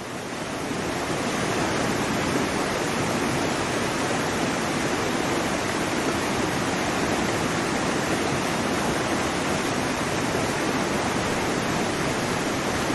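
Waterfall running: a steady, even rush of falling water that fades in over the first second or so and then holds level.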